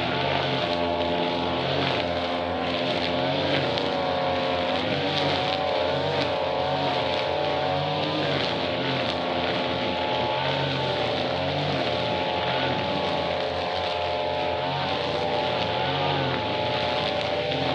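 Small two-stroke grass-cutter engine running steadily, its pitch wavering slightly up and down as the engine speed shifts.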